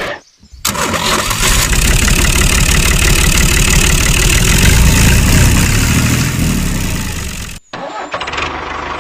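A small engine running loudly with a fast, rough rhythm. It drops out briefly just after the start and again near the end, coming back quieter after the second break.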